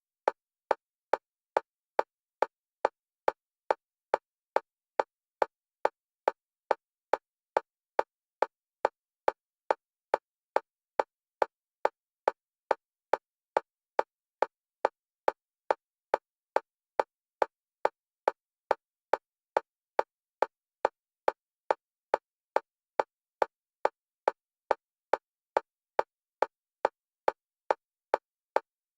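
Synthetic metronome clicks at a single pitch, evenly spaced at about two a second, each click the same level. They alternate between the left and right stereo channels, for EMDR bilateral stimulation.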